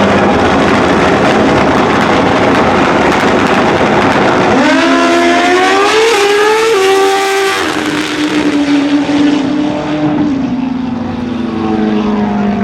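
Drag motorcycles running at full throttle down the strip: a dense roar first, then an engine note that climbs and steps with upshifts about six and seven seconds in, settling to a steadier, lower tone as they pull away.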